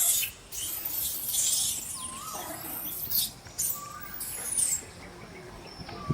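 A baby monkey giving short, high squeaks and chirps, some sliding up or down in pitch, over a rustling, scuffling noise of handling or movement.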